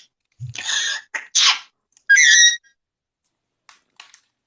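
Parrot making two short sneeze-like hissing noises, then a brief squawk about two seconds in.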